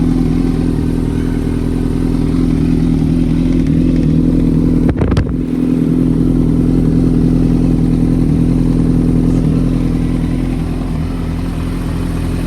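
Suzuki GSX-R 1000 inline-four engine in a GSX-R 750 frame idling steadily while it warms up after a cold start, running with no air filter. There is a short break in the sound about five seconds in.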